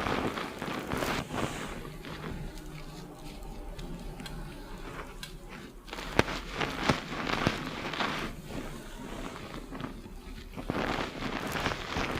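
Fingers scrubbing shampoo-lathered hair and scalp, a crackly rustling of foam that comes and goes, softer for a few seconds after the start and busier again later.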